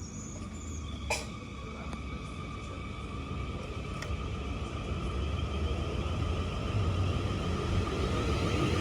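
A train drawing near, its steady rumble and whine growing louder, with one sharp click about a second in.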